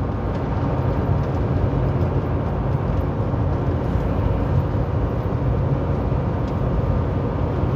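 Steady low engine drone with road noise inside a semi truck's cab cruising on the highway.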